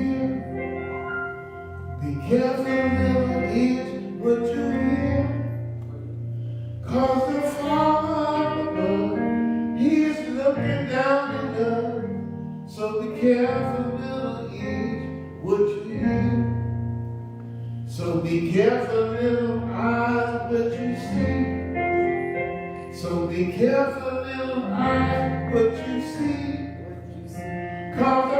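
Congregational singing with guitar accompaniment: a song sung by voices over steady strummed chords.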